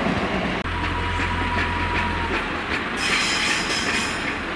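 Freight train of steel oil tank wagons rolling past, its wheels clicking over the rail joints. About three seconds in, the sound changes abruptly to a brighter, hissier train noise.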